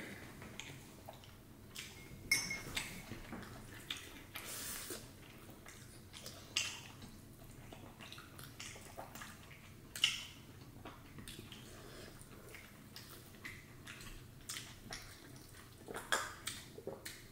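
Eating at a meal: scattered short clinks and knocks of dishes and utensils, with small noises in between.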